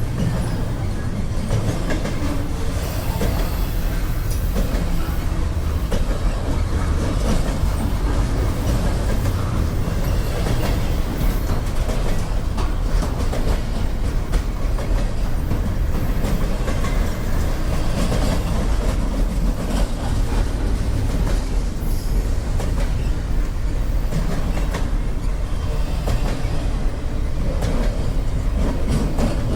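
Freight train rolling past, a steady heavy rumble with the wheels clicking over the rails.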